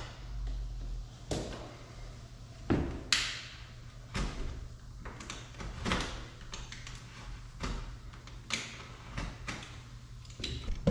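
Utility knife scoring down the painted seam of old sash-window trim, in a run of short scraping strokes about one a second. The cut frees the trim so it won't crack when it is pried off.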